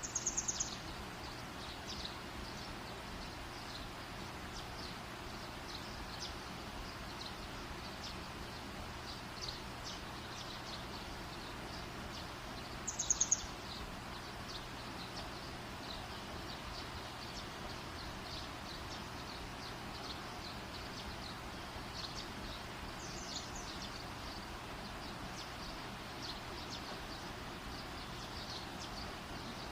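Campfire burning with a steady hiss and scattered soft crackles. Short, high, rapid trilling calls come twice, at the start and about 13 seconds in, with a fainter one near 23 seconds.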